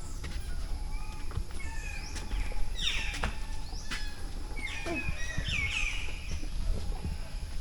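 Several birds chirping and calling in the jungle canopy, with quick falling whistled notes and short chirps, busiest in the middle of the stretch. A low rumble and a faint steady high hiss run underneath.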